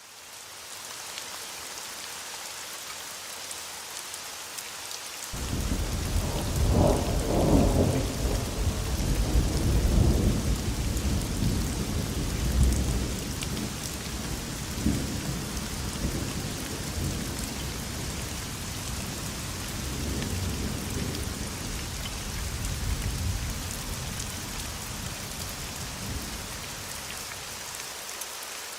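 Steady rain falling, with a long roll of thunder that breaks in suddenly about five seconds in, is loudest over the next several seconds, then rumbles on and fades away near the end.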